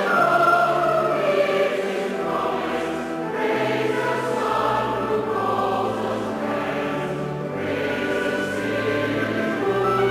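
A choir singing a hymn in parts, with sustained notes that change every second or so.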